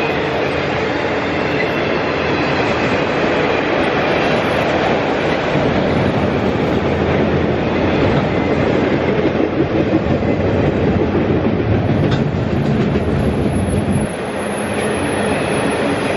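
Autorack freight cars rolling past close by: a steady rumble and clatter of steel wheels on the rails, dipping slightly in level near the end.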